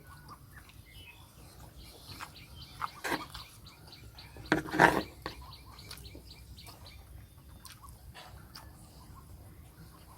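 Faint bird chirps with scattered small clicks, and two short louder sounds, one about three seconds in and a stronger one just before five seconds in.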